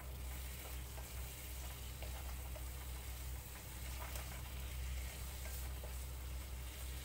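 Spiced star fruit sabji sizzling in an aluminium kadai as a wooden spatula stirs it, with faint scattered scraping ticks, over a low steady hum.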